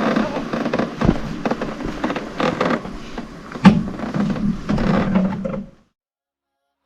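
Close knocks, clunks and rustling, with one sharp, loud knock a little past halfway, cutting off abruptly about six seconds in.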